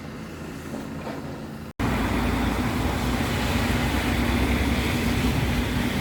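Diesel engine of site machinery running steadily, with a low drone. After a split-second cut in the audio, about two seconds in, it is louder.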